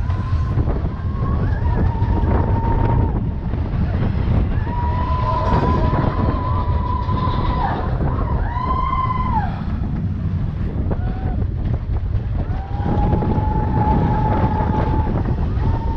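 Mine-train roller coaster cars running along the track with a constant heavy rumble, and high squeals held for a second or two several times.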